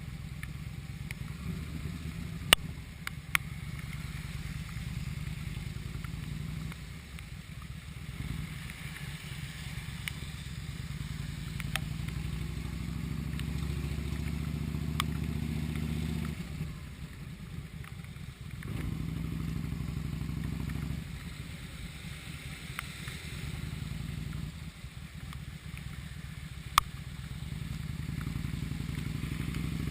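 Motorcycle V-twin engine running while riding, easing off a few times as the throttle is rolled back and then pulling again. A few sharp clicks cut in over it.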